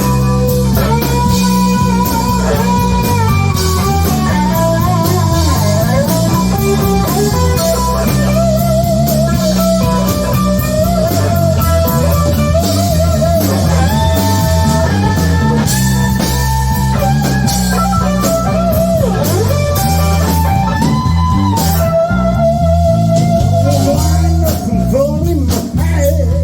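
Band playing an instrumental break in a blues-rock song: a lead guitar plays a melody with string bends and vibrato over a walking bass line and drums.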